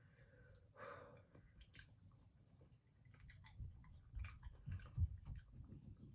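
Close-up chewing of spicy chicken wings: faint wet clicks at first, then a run of low chewing thuds that grow louder through the second half.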